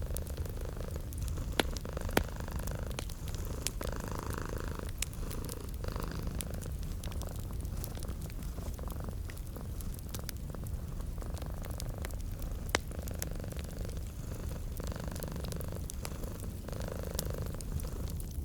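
Domestic cat purring steadily close up, the purr swelling and easing with each breath every second or two. A wood fire crackles with scattered sharp pops behind it, the loudest about two seconds in and again about thirteen seconds in.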